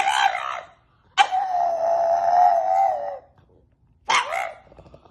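An animal calling in drawn-out, wavering, high cries: one ending just after the start, a long steady one of about two seconds, and a short one near the end.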